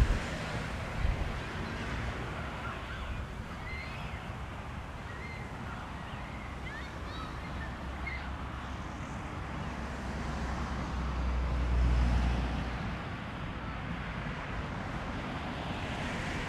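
Wind buffeting an action camera's microphone: a steady rushing rumble that swells into a stronger gust about eleven to thirteen seconds in.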